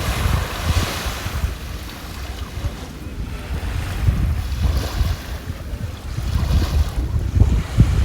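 Wind buffeting the microphone in a heavy, uneven rumble, over the hissing wash of surf that swells and fades several times.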